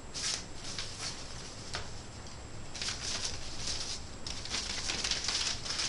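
Wood fire crackling in the firebox of a brick fireplace: irregular pops and hissing, busiest in the second half.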